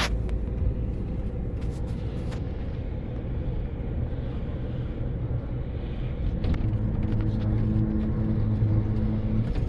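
Car driving with a steady low road and engine rumble, and a few faint clicks about two seconds in. A low engine hum grows louder in the last few seconds.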